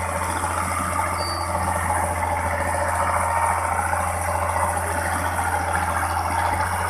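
Ford County tractor's diesel engine running steadily, a constant low drone with mechanical noise over it.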